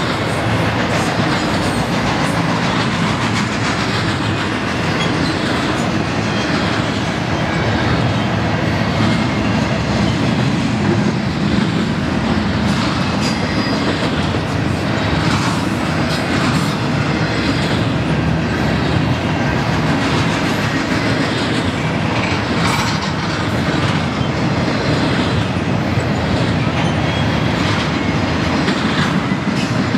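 Double-stack intermodal container train's loaded well cars rolling past: a steady rumble of steel wheels on rail with repeated clicking from the wheels over the track.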